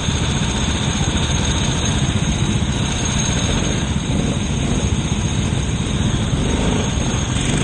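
Kart engine running steadily on track, heard from on board the kart, mixed with dense wind and road rumble.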